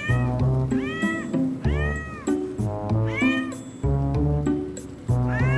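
Cat meowing repeatedly, about once a second, each meow rising and then falling in pitch, over background music.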